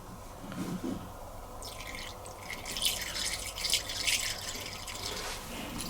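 Rinse aid being poured from a bottle into a dishwasher's rinse aid dispenser, a thin fluttering trickle that starts about one and a half seconds in.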